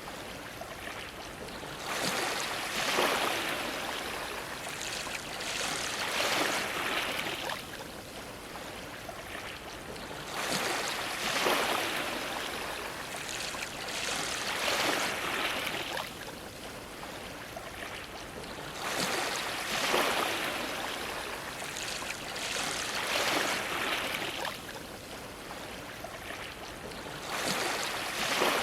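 Ocean waves splashing against a dock, a swell of rushing water every few seconds that sinks back between surges.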